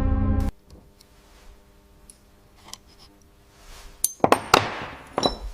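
Background music cuts off about half a second in. Near the end, metal parts clink sharply several times with a short scraping rasp.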